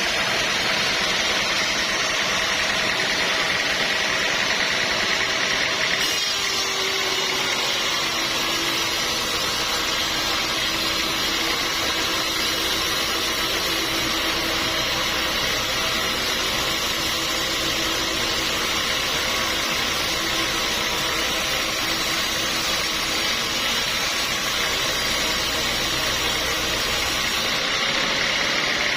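Sawmill machinery running steadily. From about six seconds in until near the end, a lower hum with a steady mid tone joins it.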